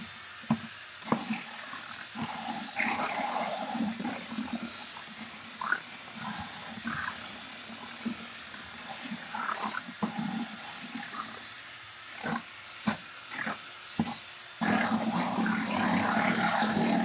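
Scattered knocks and clatter of tools being handled. Near the end a power drill starts up and runs steadily.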